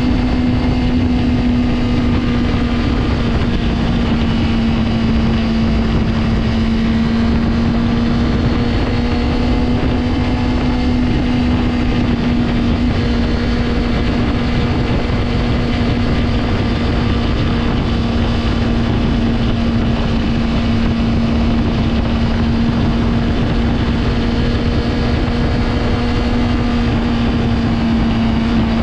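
Honda CBR600RR's inline-four engine running at steady, fairly high revs, holding one unchanging tone throughout.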